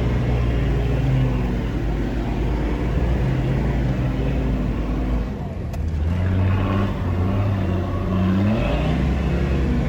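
4WD engine working hard under load while climbing a soft sand dune. The engine note drops briefly about five and a half seconds in, then climbs again.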